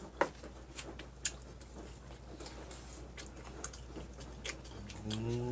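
Close-miked eating sounds of people chewing a burger: scattered wet mouth clicks and smacks. Near the end, a brief low hum of a voice.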